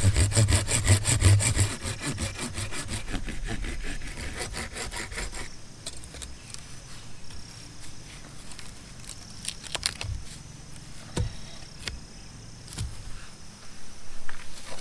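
A hand saw cutting wood in quick, even back-and-forth strokes that stop about five seconds in, followed by scattered knocks and clicks as the wood is handled.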